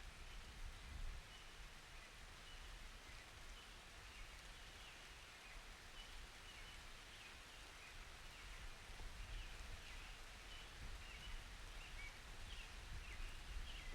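Faint, steady rain with a run of short, high-pitched squeaks or chirps repeating about twice a second.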